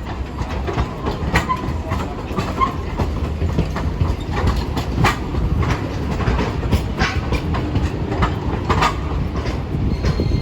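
Hiroshima Electric Railway streetcar running past at low speed, a steady low rumble with irregular sharp clacks as its wheels cross rail joints and points.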